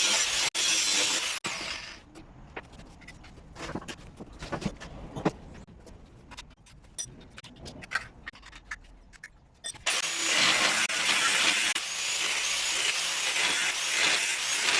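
A cutting tool rasping loudly through the old electric water heater's casing. It stops about two seconds in, leaving scattered clinks and knocks, and starts cutting again about ten seconds in.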